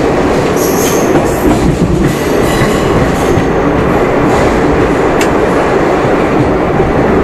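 Passenger train of the 17007 Secunderabad–Darbhanga Express running alongside a station platform, heard from aboard: a loud, steady rumble of wheels on rails, with one sharp click about five seconds in.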